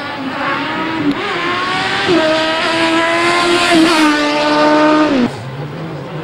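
Racing motorbike engine at high revs, its pitch climbing and dropping back at each gear change as it accelerates past, growing louder and then ending abruptly about five seconds in.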